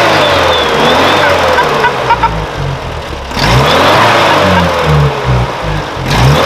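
GAZ Volga car engine running after a restart, its speed changing unevenly in the second half.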